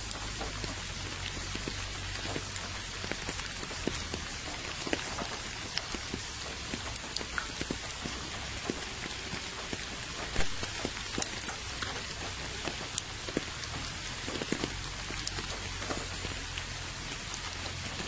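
Rain falling steadily onto a puddle and wet path: an even patter with many single drops splashing, one sharper drop about ten seconds in.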